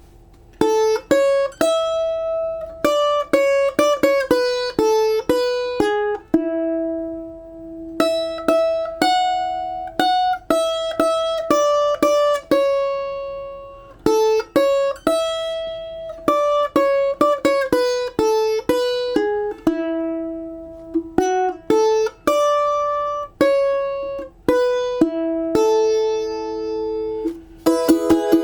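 Balalaika playing a slow, lyrical solo melody, one plucked note at a time, with some notes held and left to ring. Near the end it moves into fuller chords.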